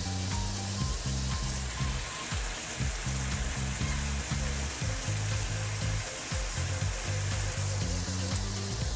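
Onion and red bell pepper strips sizzling steadily as they fry in a small saucepan.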